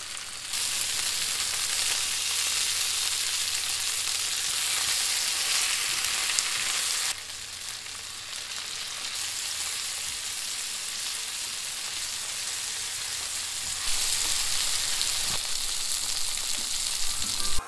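Salmon and turnips sautéing in butter, sizzling steadily in a frying pan. The sizzle is louder at first, drops abruptly after about seven seconds and rises again near the end.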